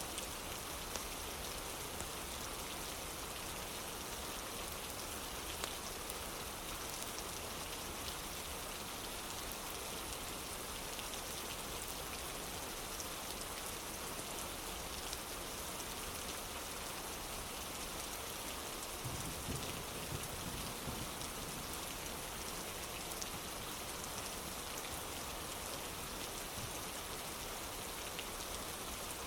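Steady rain falling on a wooden porch, an even hiss with many fine scattered drop ticks. About two-thirds of the way in the low end grows fuller for a couple of seconds.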